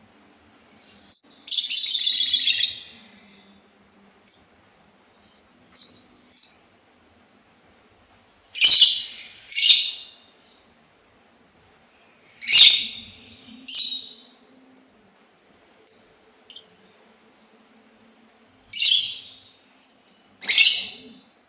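Labet Sultan bird calling: one long call about a second and a half in, then short, sharp calls every second or two, often in pairs.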